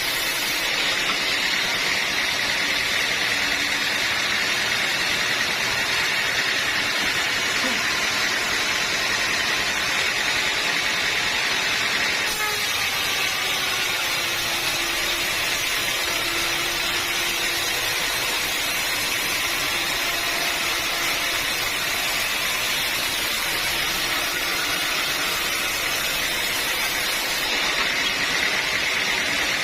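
A sawmill saw running and cutting through a hard acacia log, making a steady, unbroken noise. The sound changes abruptly about twelve seconds in.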